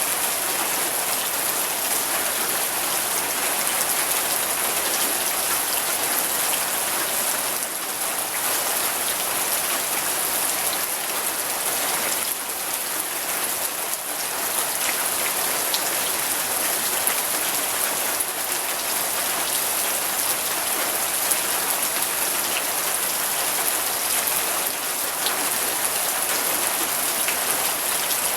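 Steady rain, a dense even hiss of falling drops with many small patters of drops striking a surface.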